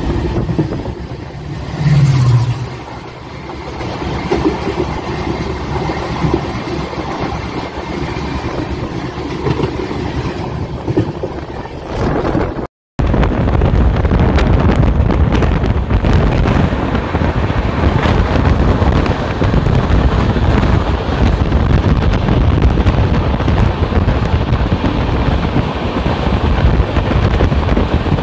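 Moving passenger train heard from an open coach door: steady rumble of wheels on the track with wind on the microphone. It cuts off abruptly about 13 seconds in and returns louder and heavier.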